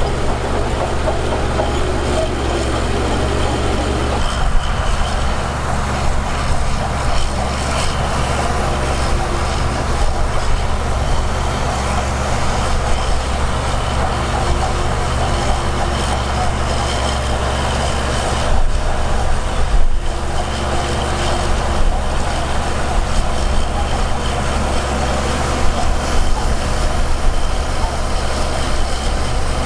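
Heavy diesel earthmoving machinery running steadily, its engine sound heavy in the low end and barely changing in pitch.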